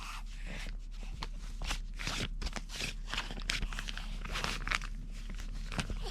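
Irregular soft crinkling, rustling and small clicks from a baby mouthing and chewing on her bib, over a steady low electrical hum.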